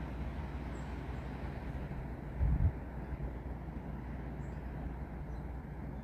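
Wind and rain in trees: a steady noise with most of its weight in a low rumble, and a short louder gust about two and a half seconds in.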